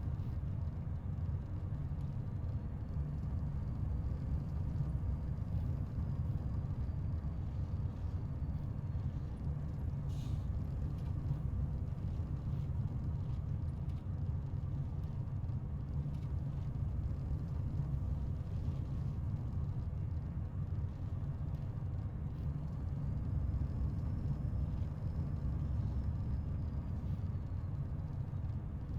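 Volvo FH 500 truck's 13-litre straight-six diesel running steadily while driving, a continuous low drone of engine and road noise. A faint high whine rises and falls twice, and there is a single click about ten seconds in.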